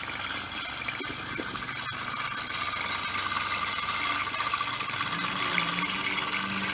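Small live-steam model traction engine running steadily: a continuous hiss of steam with a fast, fine mechanical chatter.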